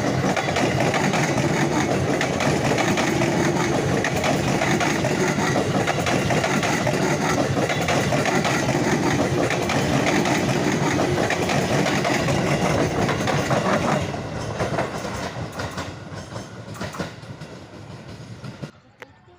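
KRL Commuter Line electric train passing close by, its wheels rumbling and clattering on the rails. The sound is steady for about fourteen seconds, then fades as the train moves off and cuts off just before the end.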